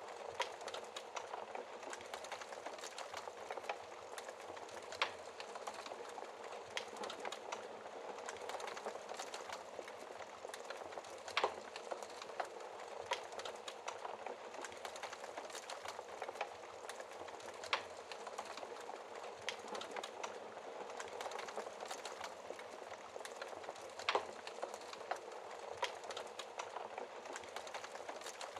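Wood fire burning in a fireplace: a steady soft hiss with irregular sharp crackles and pops, a few louder pops standing out.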